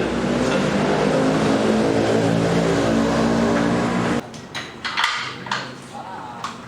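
A motor vehicle engine running steadily, stopping abruptly about four seconds in, followed by a few light clicks and knocks.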